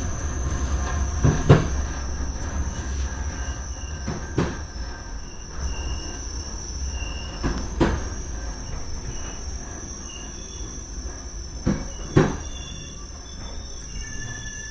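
Passenger train running on a mountain railway, heard from the rear door of a carriage: a steady low rumble with a continuous high wheel squeal. A few sharp knocks come as the wheels pass rail joints, the loudest about a second and a half in and about twelve seconds in.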